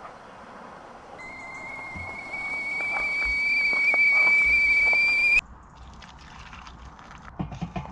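Whistling kettle: one steady high whistle that grows louder and creeps slightly up in pitch as the water comes to the boil, then cuts off suddenly. A few light knocks near the end.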